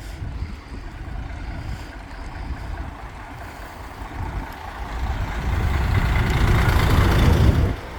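Wind and road rumble while riding a bicycle, swelling over the second half into a loud rush that drops off suddenly near the end.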